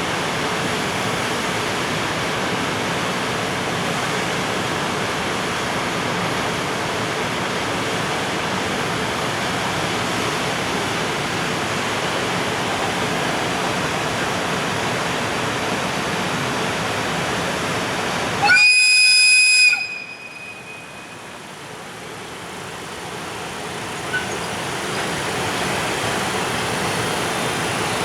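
Freight train of container wagons running past with a steady rushing noise. About two-thirds of the way through, a loud high-pitched horn blast lasting about a second sounds. The noise then drops sharply and builds back up over several seconds.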